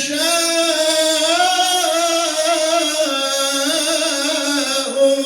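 A male reciter chanting Quranic recitation (tajweed) in one long, ornamented held melody, his voice wavering slowly up and down in pitch without a break.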